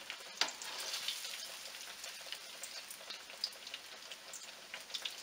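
Breaded catfish fillets frying in hot oil in a skillet: a steady crackling sizzle with scattered pops, and one sharp click about half a second in.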